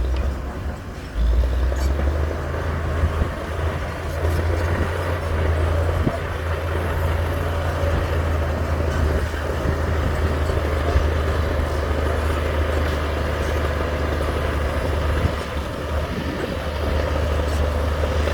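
Heavy diesel construction machinery running steadily under load, with a deep engine drone and a few faint knocks.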